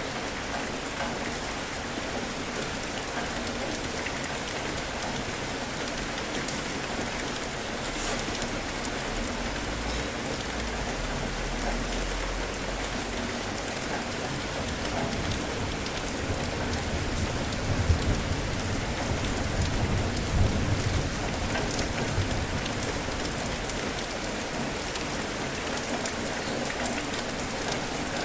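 Steady rain falling, an even hiss of drops. Low rumbles come in near the middle, strongest a little after it.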